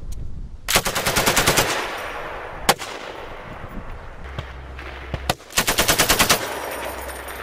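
M240G 7.62 mm belt-fed machine gun firing two short bursts of roughly a second each, about a second in and again near the end, each trailing off in a rolling echo. A few single shots sound in between.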